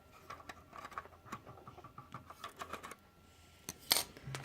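Small hard-plastic clicks and taps as a model car is handled and its hood popped open, with one sharper, louder click about four seconds in.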